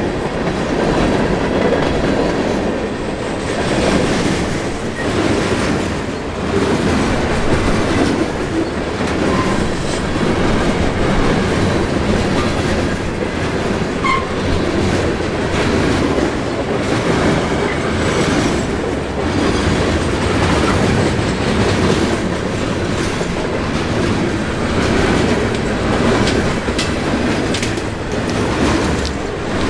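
Freight cars of a long Canadian National freight train rolling past on curved track: steady wheel-on-rail rumble with clickety-clack over the rail joints, and a thin high-pitched wheel squeal from about five to ten seconds in.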